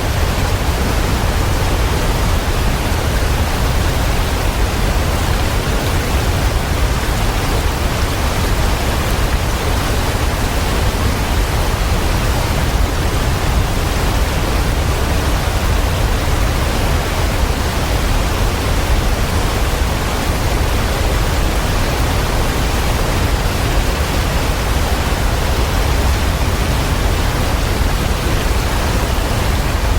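Waterfall: a steady, unbroken rush of falling water, deep and full in the low end, with no change in level.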